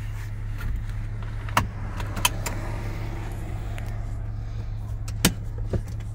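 A 2007 Toyota FJ Cruiser's 4.0-litre V6 idling steadily, heard from inside the cabin. A few sharp clicks and taps come over it, the loudest about five seconds in.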